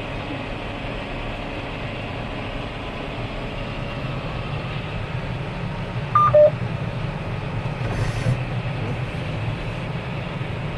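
Tractor engine running steadily as a low hum, with a two-tone electronic beep about six seconds in: a short high tone followed by a short lower one, from the tractor's GPS guidance unit.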